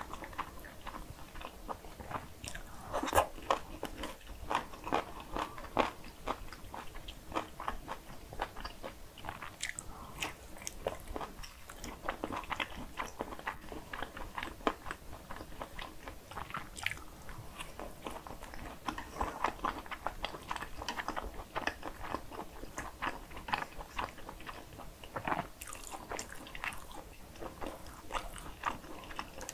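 Close-miked eating sounds: chewing and biting mouthfuls of cream pasta, with many short sharp clicks at an irregular pace.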